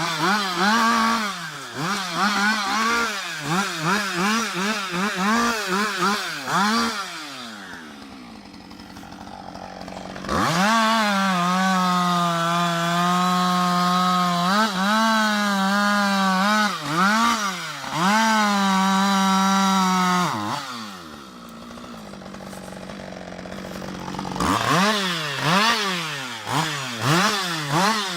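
Husqvarna 560 XP two-stroke chainsaw blipped up and down in quick revs, dropping back to idle, then held at full throttle for about ten seconds with a few short dips under load as it cuts into a tree trunk. Near the end it idles and revs in quick blips again.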